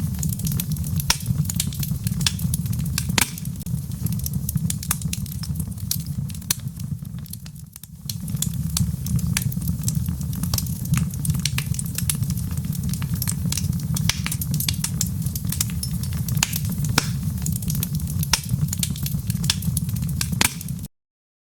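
Wood fire burning in a fireplace: a steady low rumble of flame with frequent sharp crackles and pops. It briefly fades about eight seconds in, then resumes, and cuts off abruptly near the end.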